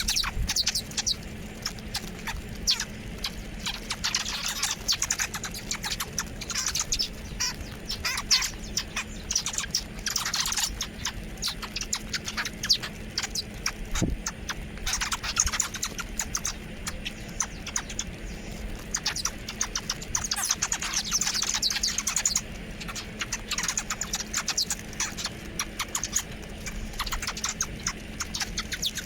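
Birds chirping: a dense run of short, high chirps with no pause, heavier in stretches, over a faint steady low hum.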